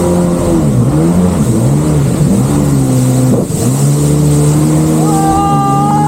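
Jet ski engine revving up and down again and again, its pitch swinging as the craft rides over the waves, with a sudden dip about three and a half seconds in.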